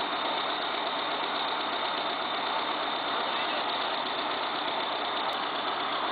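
Heavy diesel engine running steadily, with no change in level.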